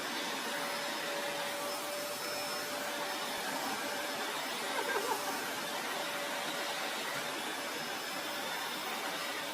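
An appliance motor running steadily: an even rushing noise with a faint steady hum.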